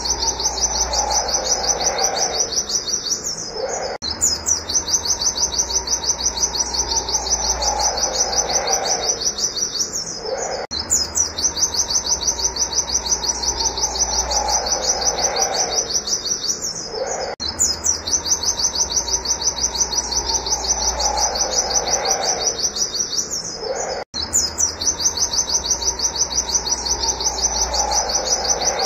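White-eye (pleci) singing a fast, unbroken string of high 'wit wit' notes, its repetitive 'nembak' shooting song. A fainter, lower falling sound comes back every six to seven seconds beneath it.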